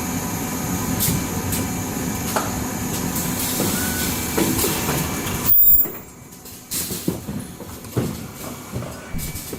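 Automatic N95 cup mask machine running: steady machine noise with repeated clicks and knocks. A little past halfway there is a short loud burst, after which the steady noise drops away and only separate clacks remain.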